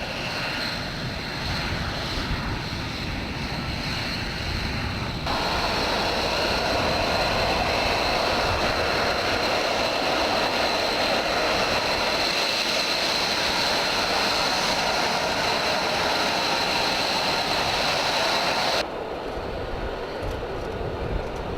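F-35B jet engine running with a steady rushing noise and a high whine. The sound jumps abruptly louder about five seconds in and drops back near the end, as footage of separate passes is cut together.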